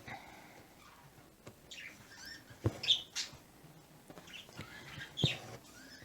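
Small birds chirping in short bursts, a cluster of chirps about two to three seconds in and more near the end, with a few light taps among them.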